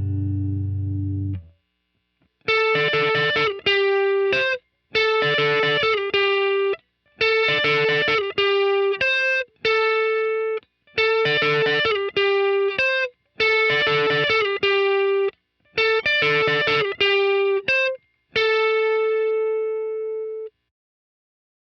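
Telecaster-style electric guitar through an amplifier playing a short single-note riff, repeated about eight times with brief silences between. A chord rings out at the start, and the last note is held and left to ring.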